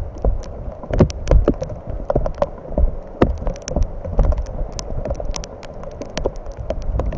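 Rain falling, with drops striking the camera and its microphone in many irregular sharp taps and low thumps, several a second.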